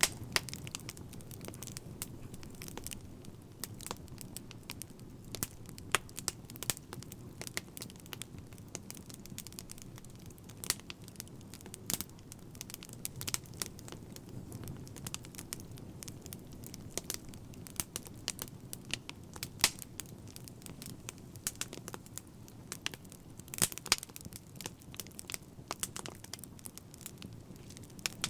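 A fire crackling: irregular sharp pops and snaps, some louder than others, over a low, steady rumble of burning.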